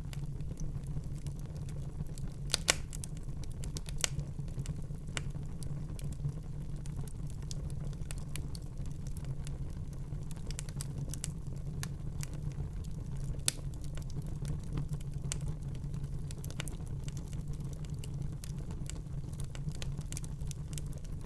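Wood fire burning in a fireplace: irregular crackles and small pops over a steady low rumble, with two sharper pops standing out, one about three seconds in and one about halfway through.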